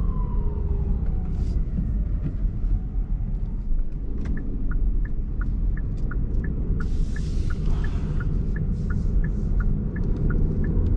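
Steady road and engine rumble inside a moving car's cabin. A police siren's wail falls away over the first couple of seconds, and from about four seconds in a turn-signal indicator ticks steadily.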